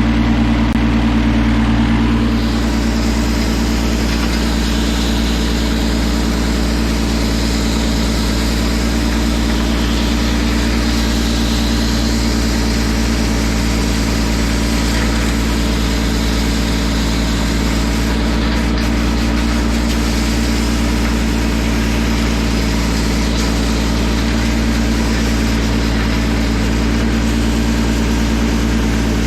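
Tractor engine running at a steady speed, with a steady rumble and no change in pitch.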